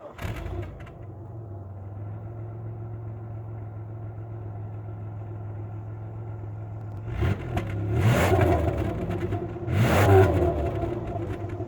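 3.8-litre 3800 Series II V6 of a Buick LeSabre idling steadily, then revved twice, about seven and ten seconds in, each rev rising and falling back to idle.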